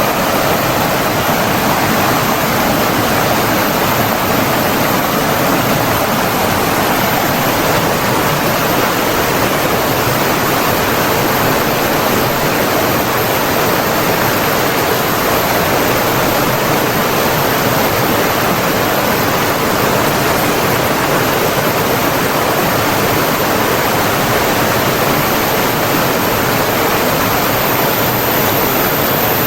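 Steady, unbroken rush of flowing water from a stream or waterfall, an even hiss that does not change.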